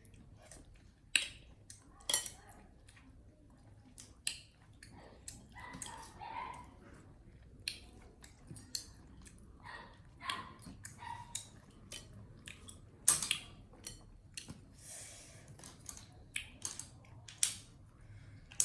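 Monkeys eating: irregular sharp crunching clicks from food being bitten and chewed, with a few short high squeaks about six and ten seconds in.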